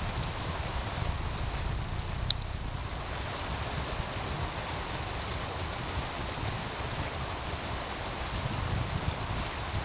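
Wood fire crackling with scattered sharp pops, one much louder crack a little over two seconds in, over the steady rush of a meltwater stream. A low wind rumble runs underneath.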